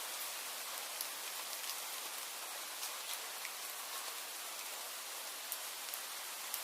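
Steady rain falling, a constant hiss with scattered faint drip ticks.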